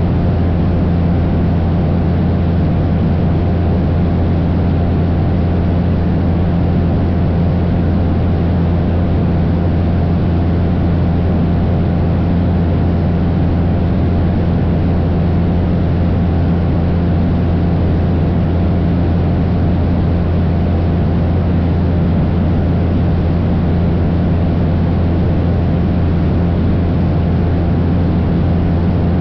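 Cessna 172's piston engine and propeller droning steadily in cruise flight, a constant low hum with a few steady higher tones over it.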